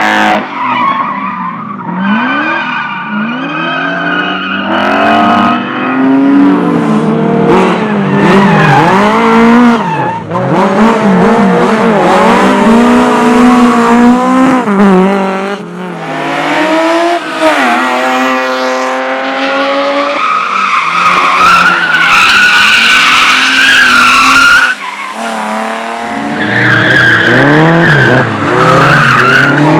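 Competition car engine revving hard, its pitch rising and falling again and again through quick gear changes, with tyre squeal, as the car is thrown through a slalom course.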